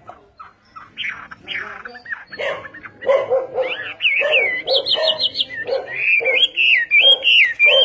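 A songbird singing loud, varied whistled phrases that sweep up and down, strongest in the second half. Under it runs a series of short, lower-pitched calls repeated about twice a second.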